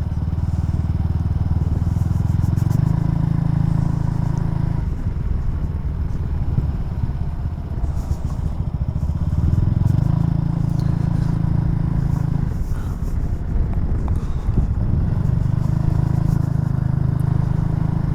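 Honda Super Cub C125's single-cylinder engine running on the road, its revs climbing and dropping back three times as the bike pulls away and changes gear. The bike has a 37-tooth rear sprocket, one tooth more than standard.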